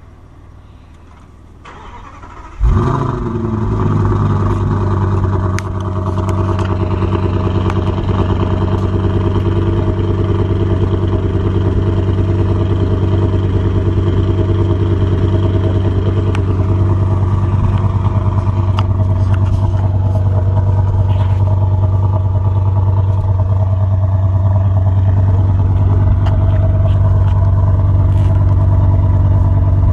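A big performance car engine starting about three seconds in, with a brief rev as it catches, then settling into a steady idle through the exhaust.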